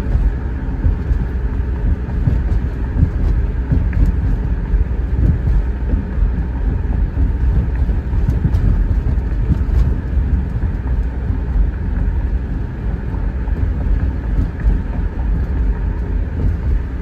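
Steady low road and engine noise heard from inside a moving car's cabin, with no horn or other distinct events.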